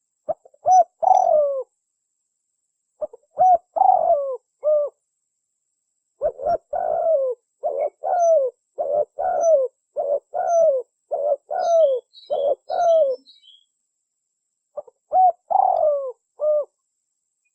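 Spotted dove cooing, the lure call used to attract tekukur. It gives short phrases of falling coos, with a long run of about a dozen evenly spaced coos in the middle. A faint high twittering of a small bird comes in near the end of that run.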